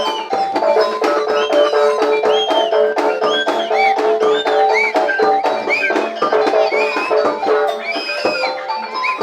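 Live jaranan gamelan music: rapid struck metal and drum beats under steady pitched notes, with short rising-and-falling high tones layered on top.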